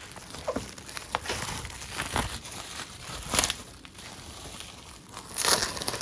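Plastic bubble wrap crinkling and rustling as it is pulled away from a package, in irregular handfuls, loudest about five and a half seconds in.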